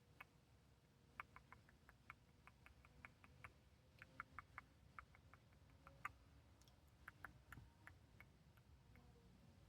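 Faint, irregular fingernail clicks and ticks, several a second, from ASMR face-scratching on the camera.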